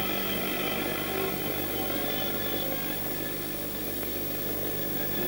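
A motor running steadily at an even pitch, typical of forestry machinery at work.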